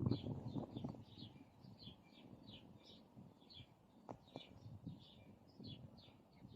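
A bird chirping over and over in short, high, falling notes, several a second, over a low rustling rumble; two sharp clicks come about four seconds in.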